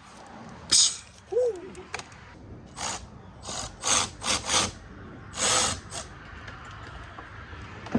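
Power tool run in a series of short bursts, about nine pulls of a few tenths of a second each, typical of working bolts loose during an engine removal.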